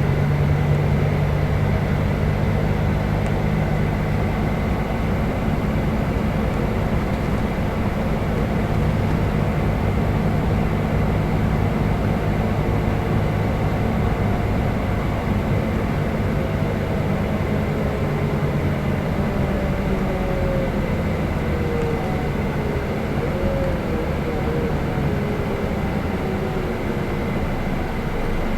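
Scania K320 coach under way: a steady low engine drone over road noise. The engine note eases after the first several seconds, and faint whines slide down in pitch in the second half.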